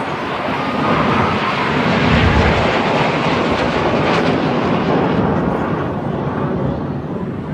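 An aircraft flying past, its engine noise building to a peak about two to three seconds in, then slowly fading.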